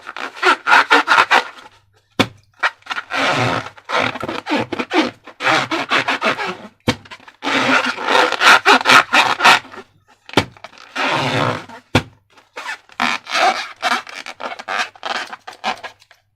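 Slime being squished and worked by hand: repeated bursts of crackling squelches, each a second or two long, with a few sharp clicks between them.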